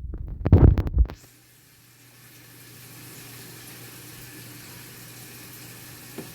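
Muffled low thumps and knocks of a handheld phone's microphone being moved about, for about a second. These stop suddenly and give way to a steady low hum with faint hiss.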